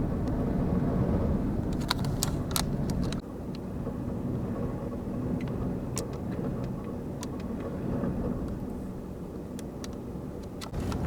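Steady low rumble of extreme wind around a vehicle, with a few sharp clicks about two to three seconds in. The rumble drops suddenly in level just after the clicks, then carries on more quietly.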